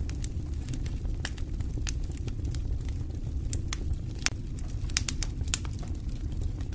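Wood fire burning in a fireplace: a steady low rumble of flames with irregular sharp crackles and pops, a few louder snaps in the second half.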